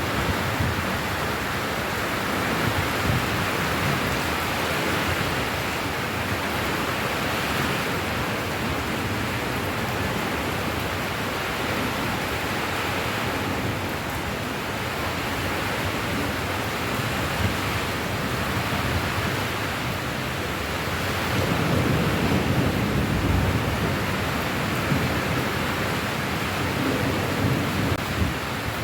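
Rain falling steadily, with a low rumble swelling for a few seconds about three-quarters of the way through.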